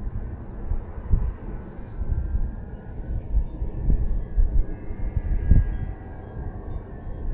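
Wind buffeting the microphone in gusts, with a faint steady high-pitched pulsing tone underneath.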